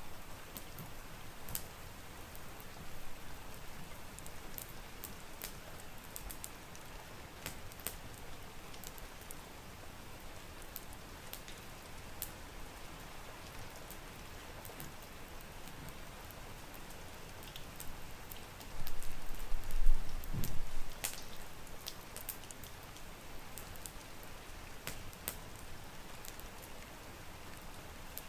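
Steady rain with scattered sharp crackles of a wood fire. About two-thirds of the way through, a brief, loud low rumble swells and fades.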